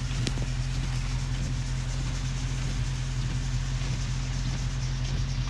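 Dodge Charger Scat Pack's 392 Hemi V8 idling with a steady low rumble, under an even hiss of rain.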